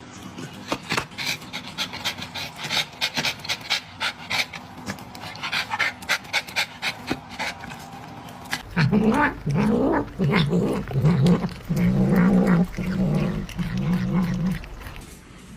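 Dog making a quick, irregular run of short breathy sounds, then from about nine seconds in a series of about six louder, drawn-out low vocal sounds that bend in pitch.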